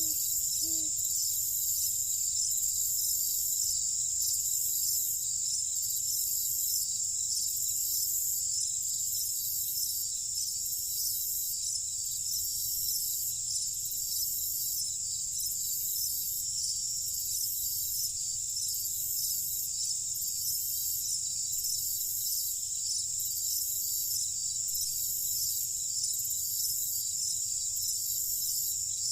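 Night insect chorus of crickets chirping: a dense, steady high-pitched trill with a regular pulsing beat. A faint low rumble runs beneath it, and a few short low calls sound right at the start.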